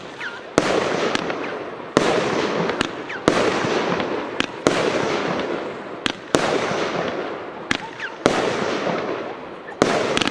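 A 25-shot, 30 mm consumer fireworks battery firing: a sharp bang about every second and a half, each followed by a hissing burst that dies away before the next, with a few fainter cracks in between.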